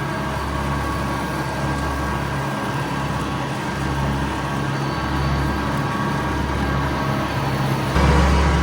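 Tractor engine running steadily while pulling an 8-foot mower through grass and weeds, with a continuous hum and mowing noise. It grows a little louder near the end.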